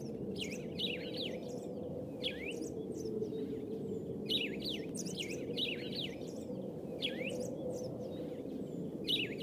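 Birds chirping in short clusters of quick sweeping whistles every second or two, over a steady low background hum.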